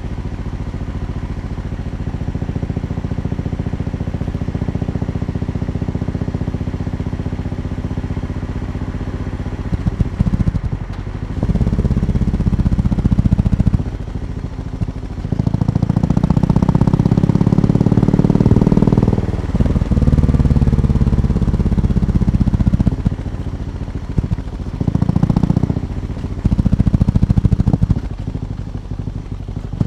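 BMW R18 B's 1,802 cc boxer twin idling steadily for about ten seconds, then revved repeatedly: several short blips, a longer rev of about three seconds midway, and more blips near the end, each dropping back to idle.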